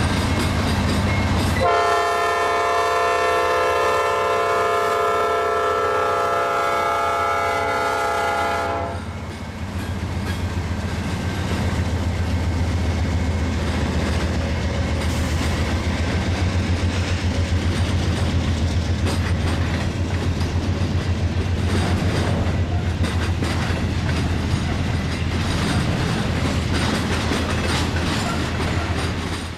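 Norfolk Southern diesel freight locomotives rumble past. About two seconds in, the locomotive air horn sounds one long, steady chord of several notes lasting about seven seconds. After it stops, intermodal trailer cars roll by with a rhythmic clickety-clack of wheels over the rail joints.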